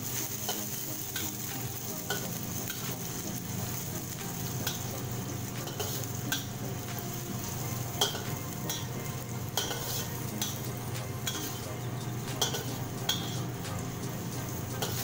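Sliced shallots sizzling as they fry in oil in a metal wok, stirred with a metal spatula that scrapes and clicks against the pan now and then, the sharpest click about eight seconds in.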